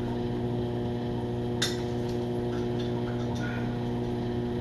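A steady electrical hum, with a sharp click about a second and a half in and a few light clinks, like dishes or glassware being handled, after it.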